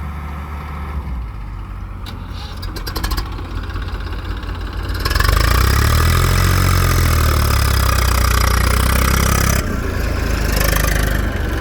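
Heavy diesel engine idling, then revving hard for about four and a half seconds from about five seconds in, its pitch rising and falling, before dropping back suddenly to a lower run.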